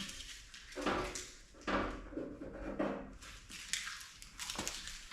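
Repeated scraping strokes on the sheet-metal toolbox, about one a second.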